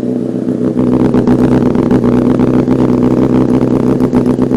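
Honda CBR1000RR Fireblade's inline-four engine idling steadily, warm after starting.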